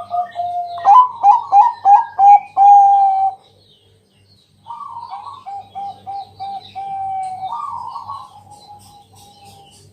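Zebra dove (perkutut) cooing: a loud phrase of quick rolling coos about a second in, a short pause, then a softer run of coos that fades near the end.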